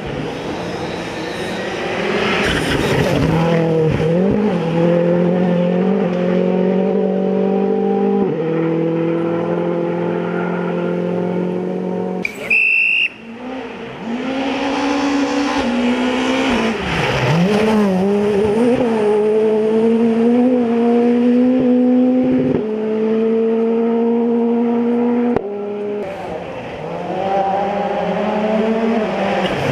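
WRC2 rally car engines driven hard on a special stage, their note rising and then dropping at gear changes, with tyre squeal. The sound cuts off abruptly twice, and a brief high-pitched tone comes at the first cut, about twelve seconds in.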